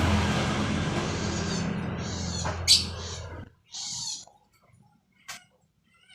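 A low engine drone that cuts off suddenly about three and a half seconds in, with short high chirps from a Eurasian tree sparrow coming through near the cut and again on their own just after it.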